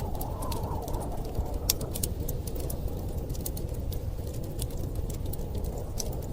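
Wood fire crackling, with irregular sharp pops and snaps over a steady low rumble of storm wind.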